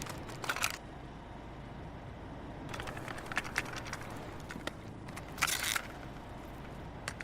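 A gap between songs, with no music: faint low background noise and hiss, broken by a few short clicks and brief bursts of noise.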